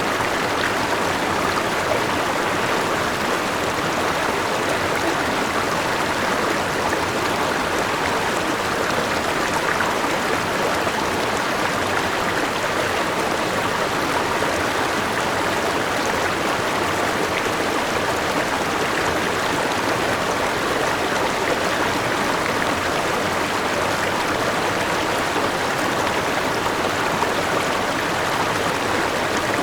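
River water rushing and splashing over rocks at a small waterfall, a steady, unbroken rush.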